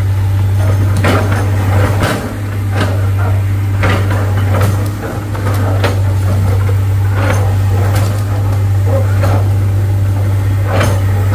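Heavy diesel engine running steadily with a deep, even drone, broken by irregular sharp metallic knocks and clanks.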